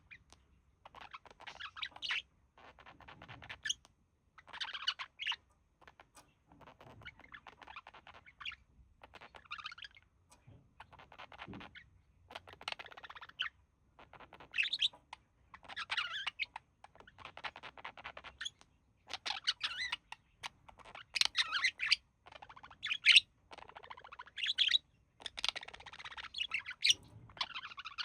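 Budgerigars chattering and warbling in bouts of a second or two with short pauses, louder in the second half.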